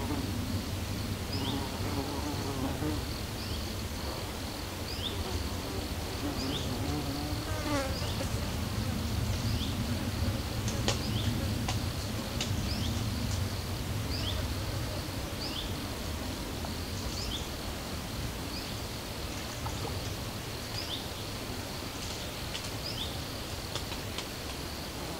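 A flying insect, fly or bee, buzzing steadily close by, with a series of short high chirps repeating about once a second.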